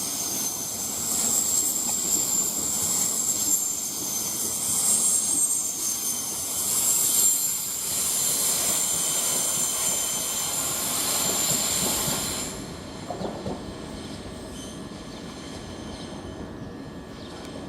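Southeastern Class 395 high-speed electric multiple unit pulling away, its wheels squealing with several steady high-pitched tones over a rumbling run. The sound drops away sharply about twelve seconds in, leaving a quieter background.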